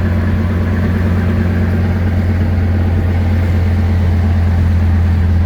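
A boat's engine running at a steady low drone as the boat works its way through shallow, muddy water.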